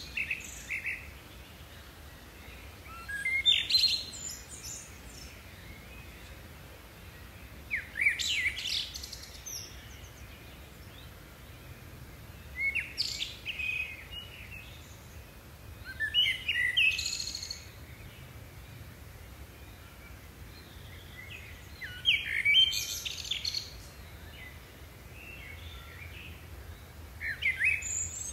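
A songbird singing short phrases of quick chirping and gliding whistled notes, about six phrases a few seconds apart.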